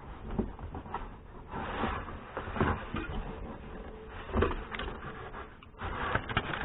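Irregular rubbing, rustling and light knocks of car interior trim being handled and pried loose by hand, with a few louder knocks near the middle.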